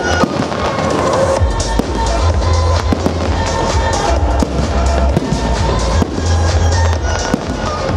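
Aerial firework shells bursting, many bangs in quick succession, over loud music with a heavy bass.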